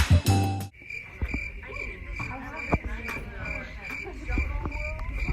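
Background music cuts off within the first second. It gives way to insect chirping: a high, even chirp repeating about three times a second, with faint clicks beneath.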